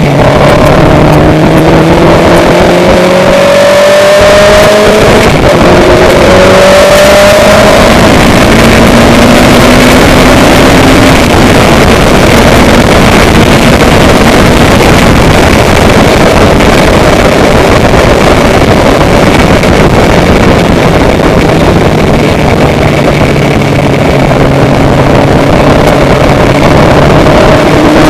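A loud engine running. Its pitch rises several times over the first eight seconds as it speeds up, then holds steady.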